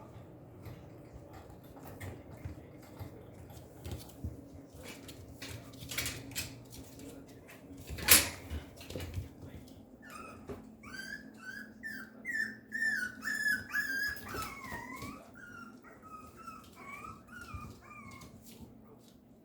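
Papillon puppy whimpering in a run of short, high calls through the second half, some sliding down in pitch. Before that there are scattered clicks and one sharp knock about eight seconds in.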